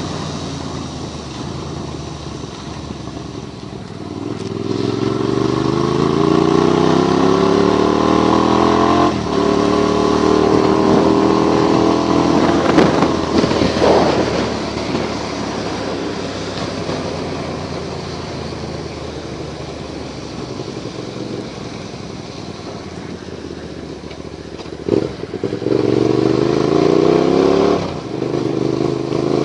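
Motorcycle engine pulling away, its pitch rising for about five seconds and then dropping at a gear change, before running steadily on a wet road. Near the end it speeds up again through another rise and shift. There is a short clatter about halfway through.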